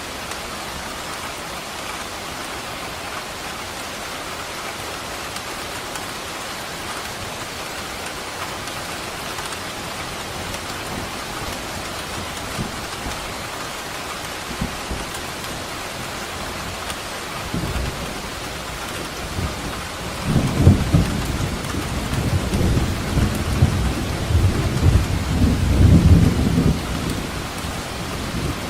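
Thunderstorm: steady rain throughout, with a short low rumble of thunder past the middle, then a longer rolling rumble of thunder lasting several seconds and loudest near the end.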